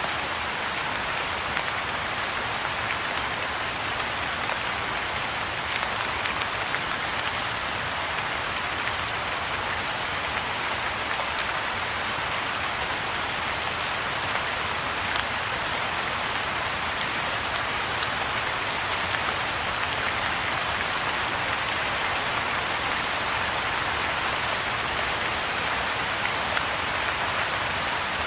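Steady rain falling onto the open water of a pool and the grass around it: a dense, even hiss dotted with many small drop ticks.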